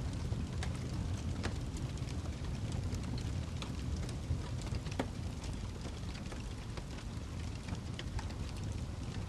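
Wood fire burning in a fireplace: a steady low rumble of the flames with frequent irregular crackles and pops from the burning logs, a few sharper pops standing out.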